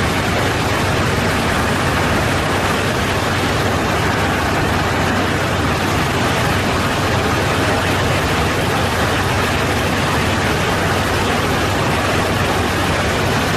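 Steady rushing noise inside an airliner's cockpit in flight, the airflow and engine noise holding level with no changes.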